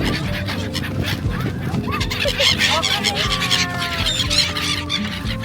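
A large flock of birds calling over one another in short rising and falling cries, with the general murmur of people around.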